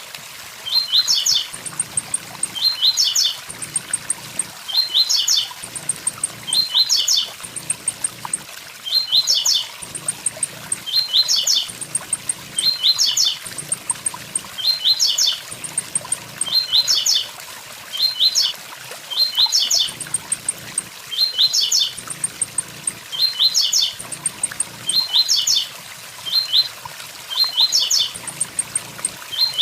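Blue-black grassquit (tiziu) singing its short, quick high phrase over and over, about once every two seconds, over the steady rush of a waterfall.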